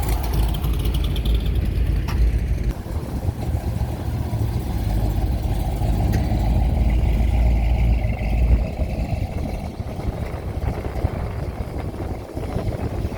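A car engine running as vehicles drive past, with a heavy low rumble that eases off about eight and a half seconds in; wind buffets the microphone.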